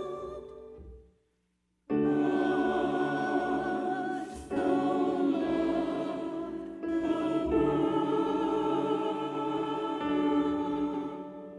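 Choir singing slow, held chords. The sound fades out about a second in, drops out for under a second, then comes back and fades again near the end.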